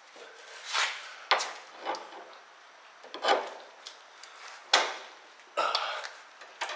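Irregular metal knocks and clanks with some rubbing, about six in all, and a longer rattling clatter near the end: steering parts and tools being handled as the steering linkage is fitted back in place.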